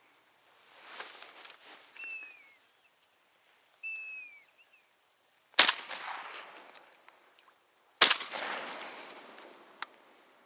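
Two shotgun shots about two and a half seconds apart, each followed by a long rolling echo, fired at flying ducks. Before them come a soft rushing sound and two short descending whistled bird calls.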